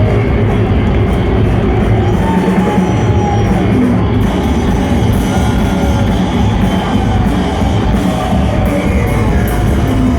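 Live rock band playing loudly, a dense steady wall of music with wavering pitched lines over it.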